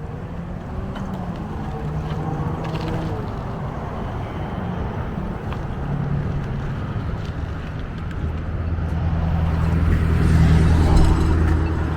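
Motor-vehicle traffic passing on the road, with a steady low rumble. One vehicle's engine hum grows louder toward the end and then eases off as it goes by.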